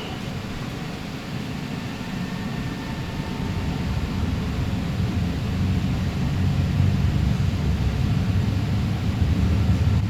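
Alstom Citadis Spirit light-rail train heard from inside the car as it pulls out of a station, a low rumble that grows louder as it gathers speed.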